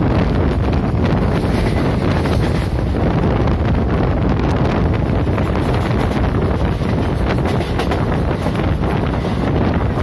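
Loud, steady rush of wind buffeting the microphone, over the running noise of an express train's coaches travelling at speed on the rails.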